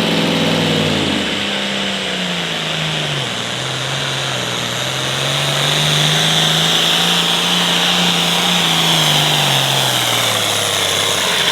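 International 1066 hot farm tractor's diesel engine working hard through a pull, with a high whine over the engine. Its pitch sags about three seconds in, climbs back, then drops away near the end as the run finishes.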